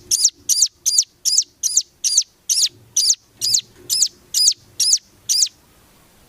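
Songbird song from a masteran (song-tutor) track: a regular series of about a dozen high, sweeping whistled notes, roughly two and a half a second, that stops about five and a half seconds in.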